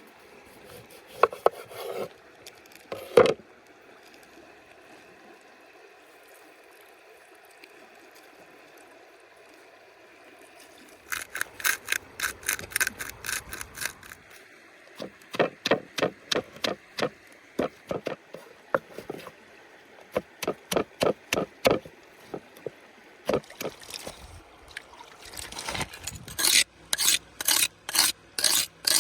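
Hand scraping or rasping in food preparation: runs of quick, even strokes, about four or five a second, each run lasting a few seconds with short pauses between. Two sharp knocks come in the first few seconds.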